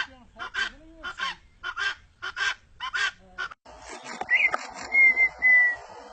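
A bird gives a series of about seven loud, harsh, honking calls, roughly two a second. Partway through the sound switches abruptly to a steady insect chorus, over which a bird whistles a short rising-and-falling note and then a longer clear whistle.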